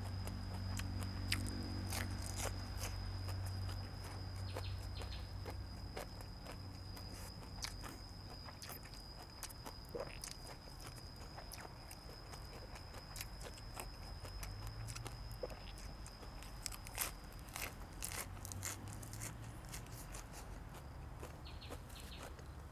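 Close-miked eating: chewing and crunching food, with many scattered short mouth clicks and smacks.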